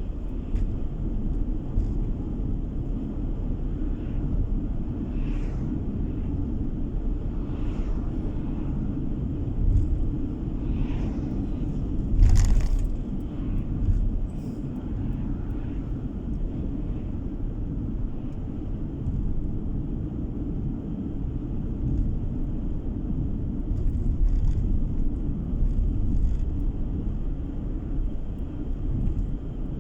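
Car driving along a road, heard from inside the cabin: a steady low rumble of tyres and engine, with a few brief knocks, the sharpest about twelve seconds in.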